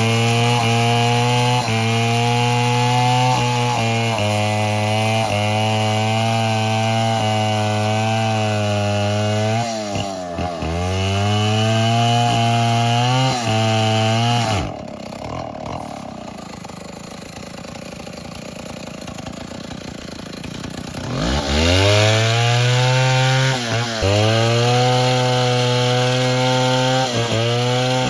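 Stihl MS 070 two-stroke chainsaw running at full revs, cutting wood, its pitch dipping briefly under load a few times. About halfway through it drops off for several seconds, then revs back up to full speed.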